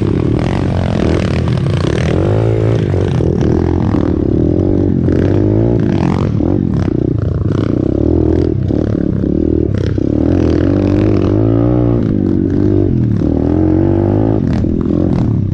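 Pitbike's single-cylinder engine revving up and down repeatedly as the bike is ridden over rough ground, with rattling and knocks from the bike throughout.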